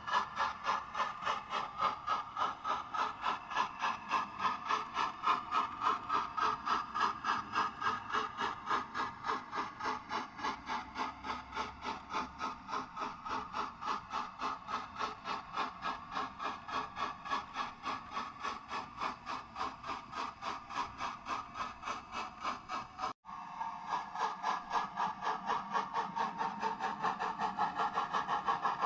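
00 gauge model train running round the layout: a steady, rhythmic pulsing that repeats several times a second without letting up, breaking off for an instant about 23 seconds in.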